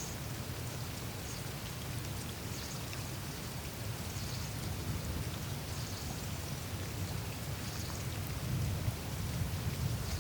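Melting glacier ice surface: a faint patter of small crackles and ticks with meltwater trickling through the ice, over a steady low rumble that grows louder near the end.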